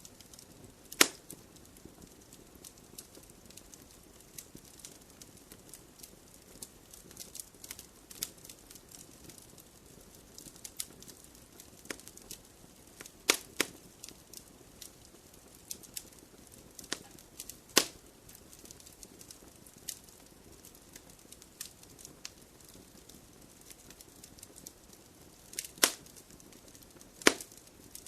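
Wood fire in a fireplace crackling: a faint steady hiss with frequent small pops and a handful of loud sharp snaps spread through, the loudest about a second in and twice near the end.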